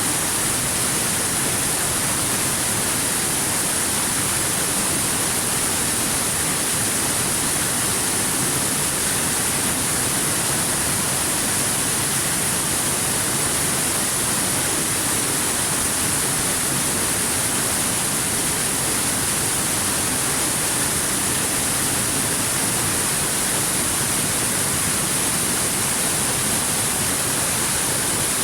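Waterfall: a steady, unbroken rush of falling water, with a hiss that is strongest in the high range.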